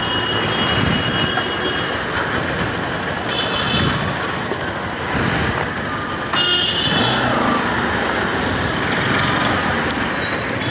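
Steady road traffic noise with several high-pitched squealing tones, changing about six seconds in.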